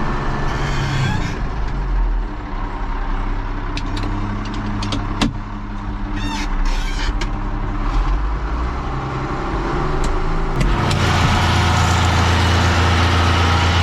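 Ford TW-20 tractor's diesel engine running steadily, with a few clicks and rattles in the middle. The engine grows louder about ten seconds in.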